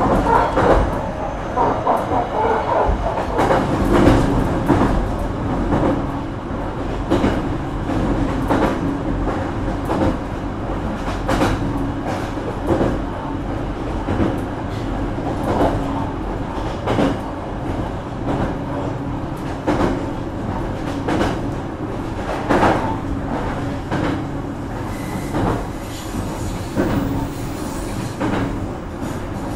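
Running noise of a JR Kyushu BEC819 DENCHA battery-electric train in motion, heard from inside the car. The wheels click over rail joints at uneven intervals above a steady low hum.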